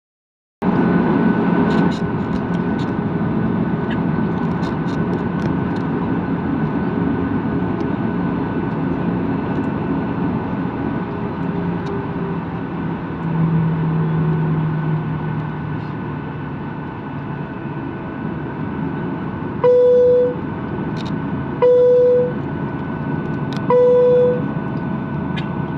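Airliner cabin noise before takeoff: the jet engines run with a steady hum and a thin steady whine. Starting about 20 seconds in, four short, identical, loud beeps come about two seconds apart.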